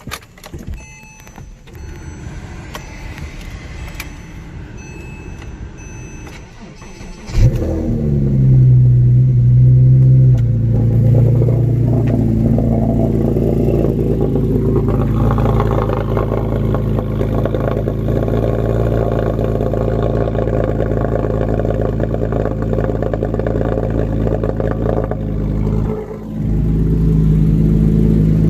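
Porsche 987.1 Cayman S's 3.4-litre flat-six, muffler deleted, starting after a few quiet clicks. It catches about seven seconds in with a sharp flare, then settles into a loud, steady idle that dips briefly near the end.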